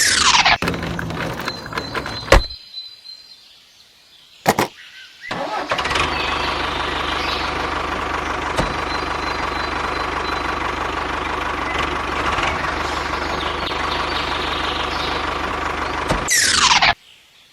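A small engine-like motor running steadily. It stops about two and a half seconds in, a sharp click comes in the gap, and it starts running again about five seconds in. Near the end a quick falling sweep comes just before it cuts off suddenly.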